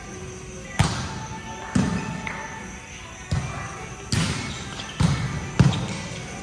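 A ball hitting hard on a court, six sharp thuds at irregular intervals of about a second, each echoing in a large indoor hall.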